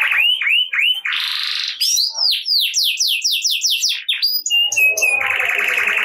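Domestic canary singing in tours of rapidly repeated notes. A few quick falling notes lead into a dense buzzing trill, then a fast run of downward-sweeping whistled notes, and near the end another buzzy, rattling trill.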